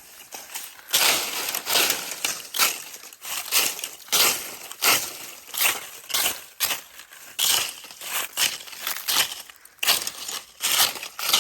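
Repeated crunching and rustling of ground litter being disturbed by someone searching for millipedes and snails, in irregular strokes somewhat over one a second.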